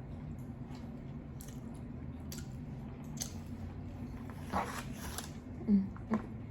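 Close-miked eating sounds: chewing and biting, with scattered small wet clicks, a longer rustling smear past the middle and two sharper knocks near the end, over a steady low hum.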